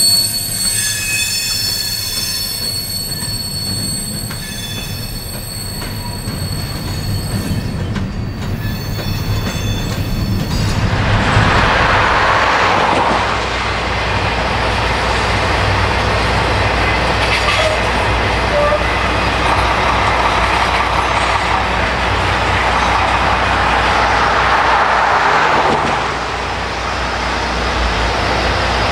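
Steel wheels of empty freight hopper cars squealing in several steady high tones as the train passes. About ten seconds in this gives way to a diesel freight locomotive pulling a train of welded-rail cars, heard as a steady low rumble with a broad rushing noise that eases a few seconds before the end.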